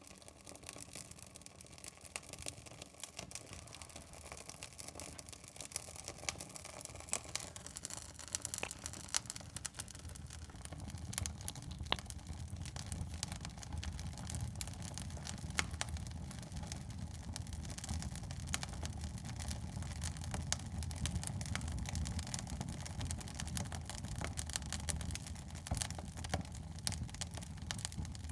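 Wood fire in a fireplace crackling, with many sharp pops and snaps from the burning logs over a low rumble of the flames that grows louder about a third of the way in.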